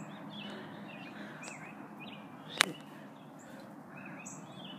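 Outdoor background with a small bird chirping repeatedly, short high calls coming every half second to a second. A single sharp click sounds about two and a half seconds in.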